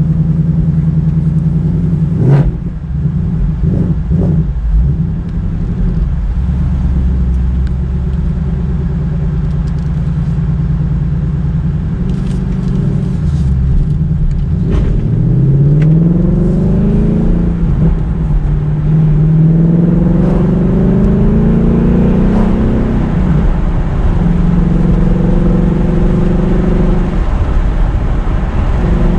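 2019 Ford Mustang GT's 5.0-litre V8 on its stock exhaust, running low and steady with a few knocks early on. It then accelerates in long pulls, the engine note rising, dropping back at the gear changes and climbing again, before settling to a steady cruise.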